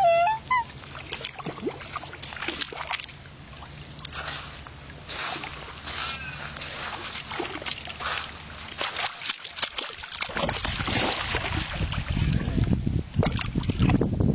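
Water splashing and sloshing around swimming black swans, with one swan's honking call at the start. The splashing grows louder over the last few seconds.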